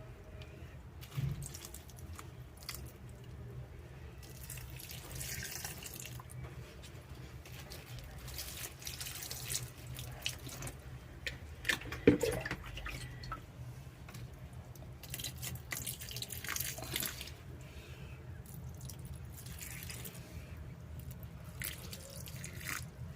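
Water running at a kitchen sink in short, uneven spells, with light clicks and knocks of things being handled, and one sharp knock about twelve seconds in.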